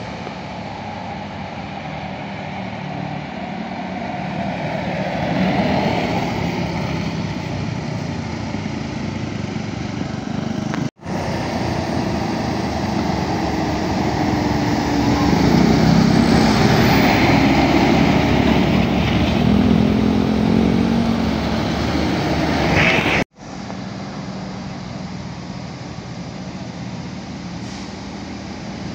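Heavy road vehicles, buses and trucks, driving past with their engines running. The sound grows loudest about halfway through as a vehicle passes close, and it drops out abruptly for an instant twice.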